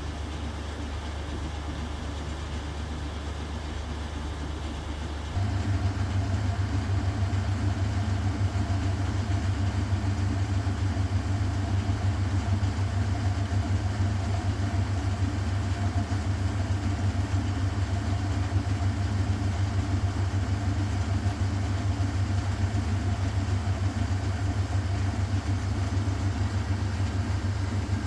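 1969 Zanker VA520 washing machine running with a steady hum. About five seconds in, the machine switches abruptly into a louder steady drone with a higher tone on top, a change to another running stage.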